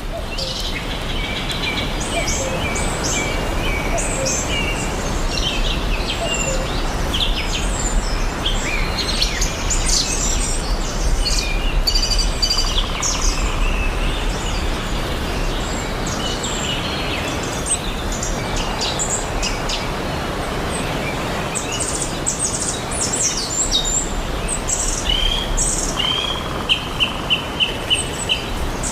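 Rainforest ambience: many birds chirping and calling over a steady background hiss, ending with a quick run of about six repeated notes.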